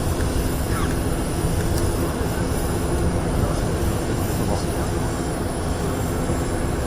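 Aircraft jet engines running, a steady low rumble with no clear change in level.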